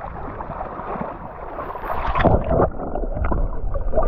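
Seawater sloshing and splashing close to the microphone as a horse swims, with a burst of louder splashing about two seconds in.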